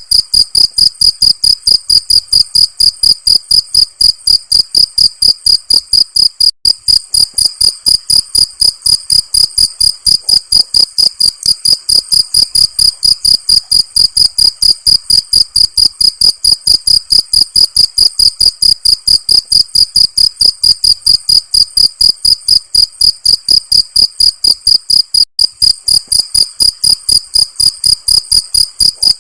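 Cricket chirping in a steady, fast rhythm of about five high-pitched chirps a second.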